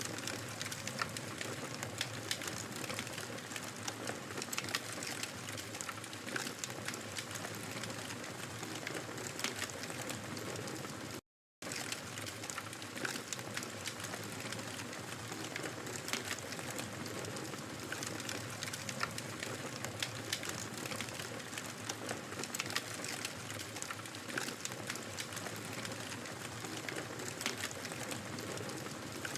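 Wood fire in a fireplace crackling steadily, with many small irregular pops and snaps over a soft hiss of burning. The sound cuts out completely for a split second about eleven seconds in.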